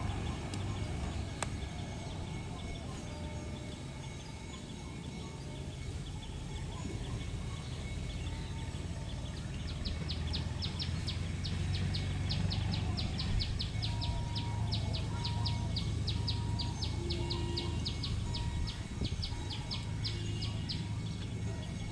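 Low steady rumble of the electric express train running away along the track. From about ten seconds in until near the end, a bird repeats a rapid run of short high chirps, about three or four a second.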